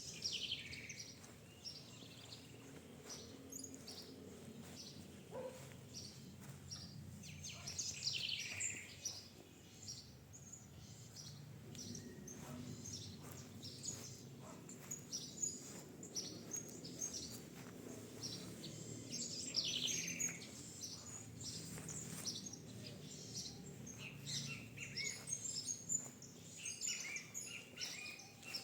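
Birds chirping and singing, with many short high calls and, at the start, near eight seconds in and near twenty seconds in, louder calls that fall in pitch, over a faint low steady background rumble.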